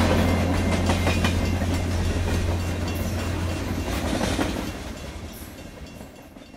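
Train rolling past, wheels clicking over the rail joints above a steady low drone, fading out gradually toward the end.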